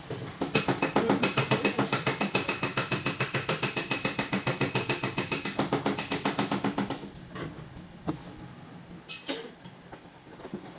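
Rapid, even tapping on a car's sheet-metal fender, several taps a second with a ringing tone: tapping down the dent during paintless dent repair. It stops about seven seconds in, and a couple of lighter knocks follow.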